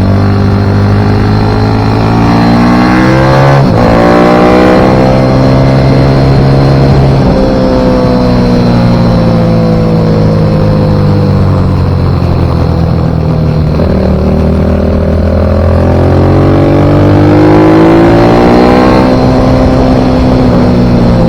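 Racing pit bike engine revving hard on track, its pitch climbing as it accelerates and sinking as it slows. Pitch drops sharply twice in the first eight seconds, then falls slowly for several seconds before climbing again.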